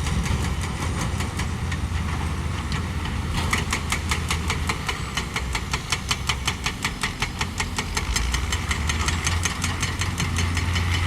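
Heavy diesel engine of earthmoving machinery running with a steady deep rumble; about three and a half seconds in, a rapid, even clatter of about six clicks a second joins it.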